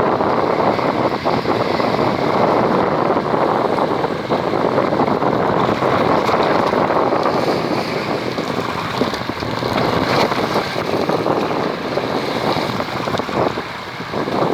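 Steady wind and water noise aboard a fishing boat at sea, with wind buffeting the microphone.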